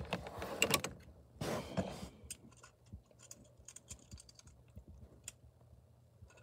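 Small plastic toy pieces being handled and set down on a table: a few rustling shuffles in the first two seconds, then sparse light clicks and taps.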